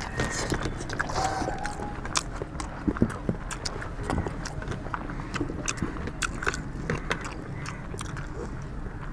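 People eating rice with chicken curry: chewing and mouth smacking, with many irregular small clicks and ticks.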